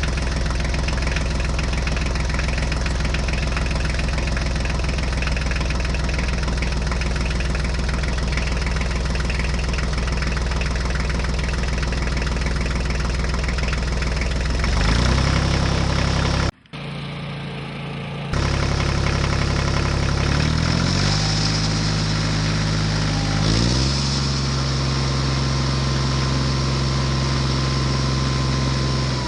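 Engine running at a steady idle. A little past halfway it cuts off abruptly and drops away for about two seconds, then comes back with its pitch stepping up and down several times before it holds steady again.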